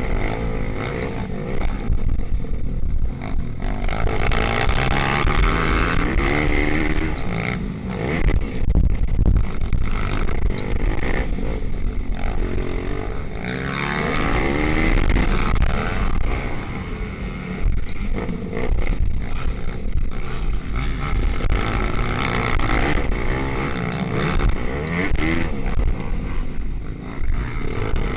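Several pit bikes racing, their small single-cylinder four-stroke engines revving up and down through gear changes and overlapping as they pass.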